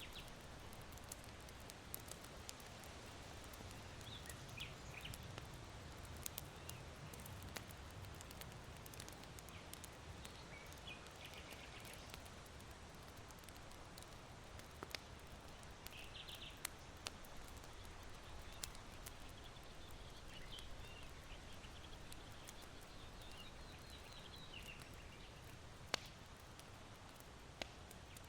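Faint steady wind hush with small birds chirping briefly every few seconds, and scattered small pops from charcoal embers in an irori hearth.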